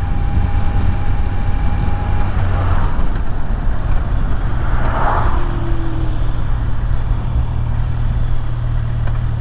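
Kawasaki Z900 inline-four engine running steadily at cruising speed, with wind rushing over the helmet or camera mic.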